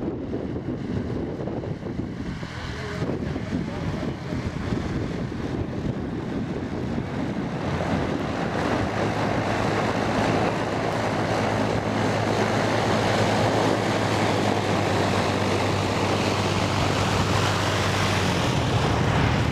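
Rutan Defiant, a twin-engine push-pull canard homebuilt aircraft, flying by: propeller and engine drone that grows louder from about eight seconds in, then holds a steady low hum.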